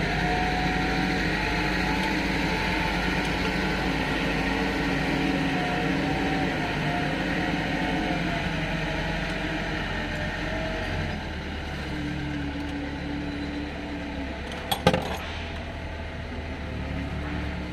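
An engine running steadily, its low hum changing note about eleven seconds in, with a single sharp metallic clack about fifteen seconds in.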